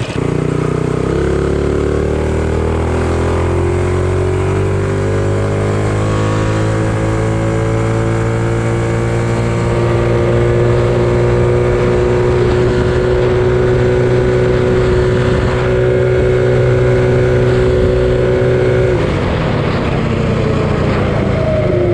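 Predator 212 single-cylinder engine with a 275 cam, powering a minibike at full throttle: its pitch climbs for several seconds as the bike gathers speed, holds high and steady, then falls away near the end as the throttle is let off.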